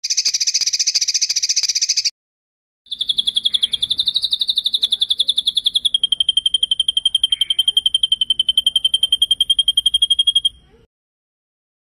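Recorded songbird song used as masteran training material: two rapid, high rolling trills. A short one lasts about two seconds, then after a brief pause a long one runs about seven seconds, drops a little in pitch partway through and cuts off abruptly.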